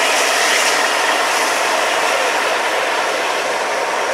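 Class 47 diesel locomotive coupled behind a steam locomotive's tender passing at close range: a steady rushing noise of the train's wheels on the rails.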